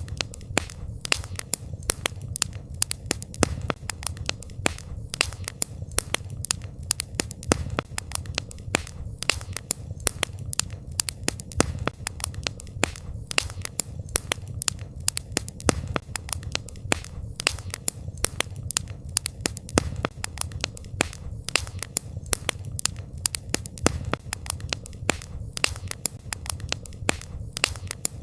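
Wood campfire crackling: a dense, irregular run of sharp pops, several a second, over a low steady rumble.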